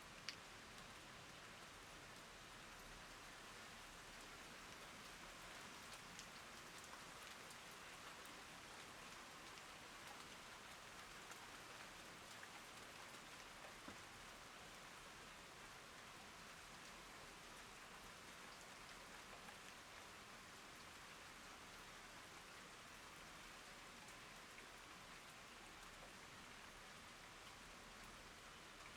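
Steady rain falling on leafy garden plants: an even, soft patter with scattered louder drops ticking through it. A single sharp click comes just after the start.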